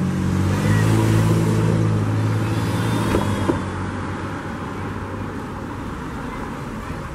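A motor vehicle's engine running close by, swelling in the first second and easing off after about four seconds.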